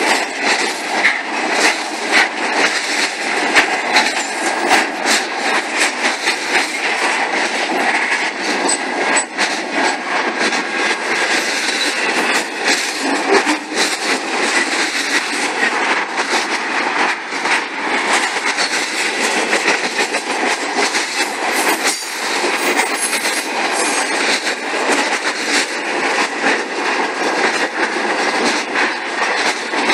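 Cars of a CSX intermodal freight train rolling past at speed: a steady rush of steel wheels on rail, with a constant run of quick clicks as the wheels cross the rail joints.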